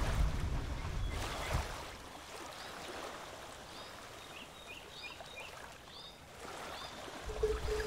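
Seaside outdoor ambience: a wash of wind and water for the first couple of seconds, then quieter, with a small bird giving short high chirps about once a second.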